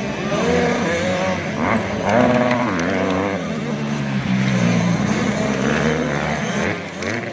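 Several 85cc two-stroke motocross bikes racing, their engines revving up and down at overlapping pitches as they ride past.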